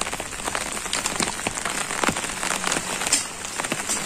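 Heavy rain falling steadily on a roof of curved clay tiles, with many separate drops ticking and water dripping off the tiles.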